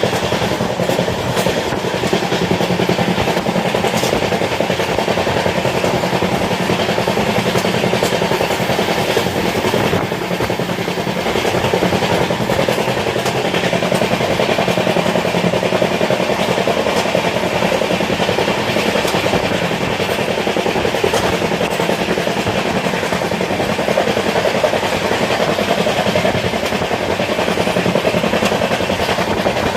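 Moving train heard from on board: the steady rumble and rattle of the carriage running along the track, with occasional sharp clicks.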